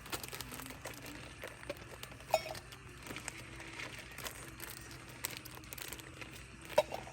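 Packaging crinkling and rustling as it is handled, with scattered small clicks and two sharper clicks, one about two seconds in and one near the end.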